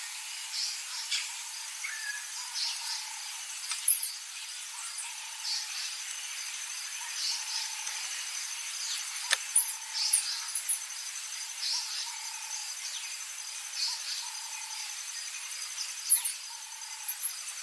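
African bush ambience: a steady high insect trill, with short calls repeating about every second and a few sharp high chirps.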